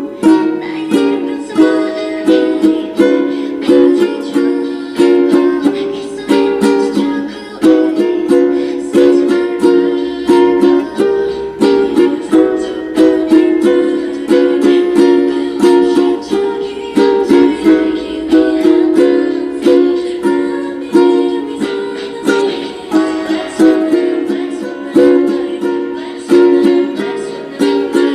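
Ukulele played solo, melody and chords plucked and strummed in a steady rhythm.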